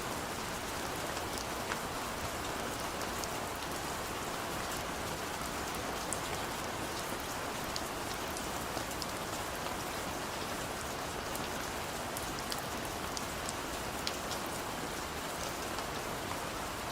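Heavy rain falling steadily, a dense even hiss with scattered sharp drop ticks on a hard surface, cutting off suddenly at the end.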